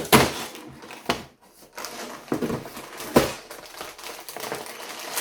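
Cardboard Lego set box being torn open by hand, with ripping and crinkling of the packaging in irregular bursts, the loudest just after the start, about a second in and about three seconds in.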